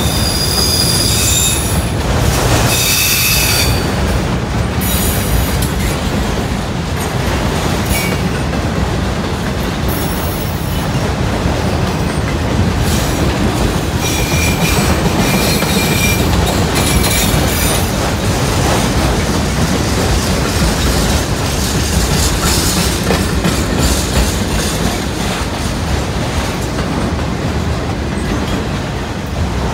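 Loaded CSX autorack freight train rolling past: a steady, loud rumble of steel wheels on the rails, with high-pitched wheel squeal near the start and again about halfway through.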